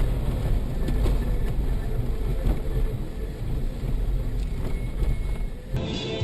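Vehicle driving noise heard from inside the car: a steady low road-and-engine rumble with a few short knocks. It cuts off abruptly near the end.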